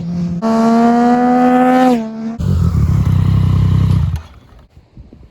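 Motorcycle engine revving hard under acceleration, its pitch climbing steadily for about a second and a half, then dropping sharply as at a gear change. A low, rough rumble follows for about two seconds and then cuts off, leaving only faint noise.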